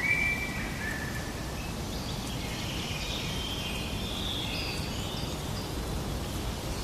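Birds calling over a steady hiss of outdoor ambience. A few clear whistled notes come in the first second, then a run of higher chirps follows in the middle.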